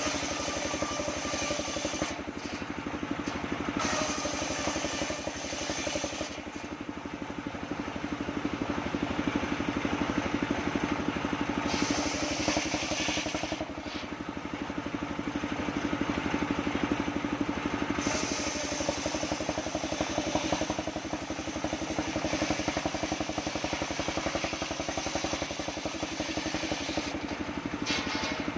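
Engine of a homemade circular sawmill rig running at a steady speed. It grows brighter and hissier about twelve seconds in and again from about eighteen to twenty-one seconds.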